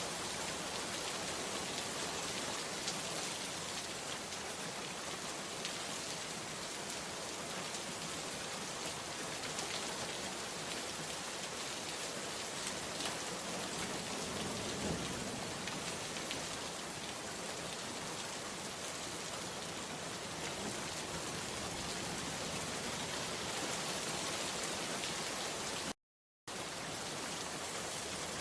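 Steady rain falling, a dense even hiss with many fine drop hits and a brief low swell about halfway through. The sound cuts out completely for about half a second near the end.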